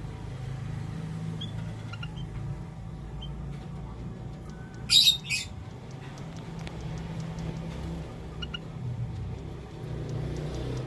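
White-headed munias (emprit haji) giving a few short, thin, high chirps, spaced a second or more apart, over a steady low hum. About five seconds in there are two loud, harsh, hissy bursts in quick succession.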